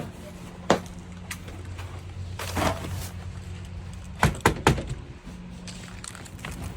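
Car engine humming steadily from inside the cabin, with a few sharp clicks and knocks and a short swish near the middle; a quick cluster of three knocks comes just past halfway.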